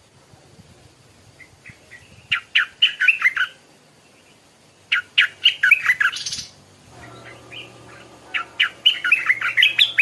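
Stripe-throated bulbul singing. It sings three short phrases of rapid chirping notes a couple of seconds apart, the last near the end.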